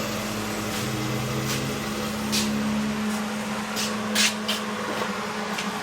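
Old Van Dorn electric grinder running with a steady hum, with several brief grinding contacts on metal, mostly in the second half.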